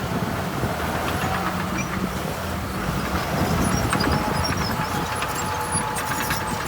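Heavy diesel earthmoving machinery running steadily with a low engine rumble; a faint steady whine joins about four seconds in.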